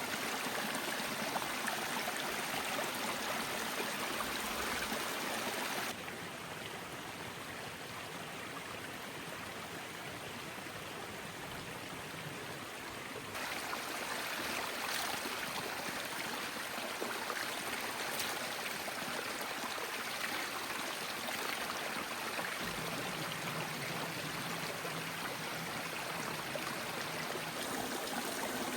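Heavy rain falling: a steady rushing hiss of water with fine drop spatter. It drops in level about six seconds in and comes back up about halfway through.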